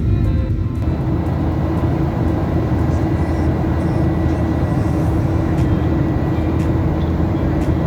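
Boeing 737-800's CFM56 jet engines running at high power during takeoff, heard from inside the cabin as a loud, steady rushing noise with a steady hum.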